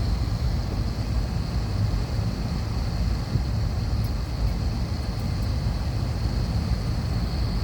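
Steady cabin noise inside an Airbus A321: a low, even rumble with a thin steady high whine over it.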